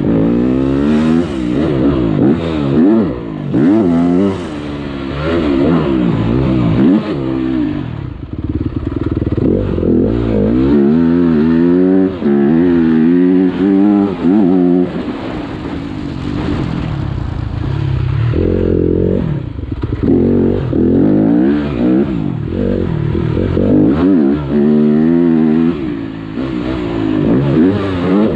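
Motocross bike engine revving hard and repeatedly, its pitch climbing and falling every second or two as the rider opens and closes the throttle and shifts gears.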